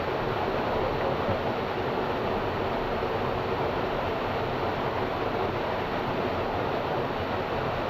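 Steady rush of water in a canyon stream.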